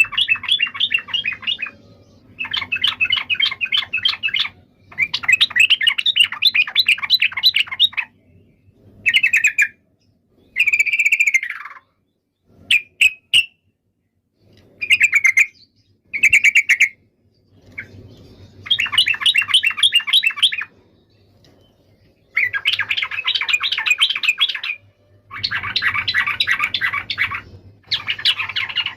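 Yellow-vented bulbul (trucukan) singing: bursts of rapid chattering notes a couple of seconds long, with a few shorter whistled phrases in the middle and brief pauses in between.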